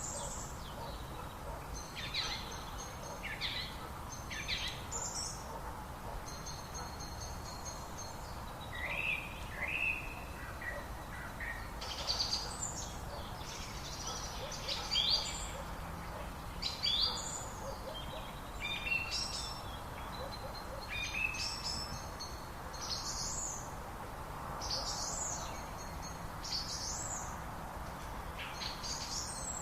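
Several songbirds singing and chirping, short high whistles and trills one after another over a steady background hiss.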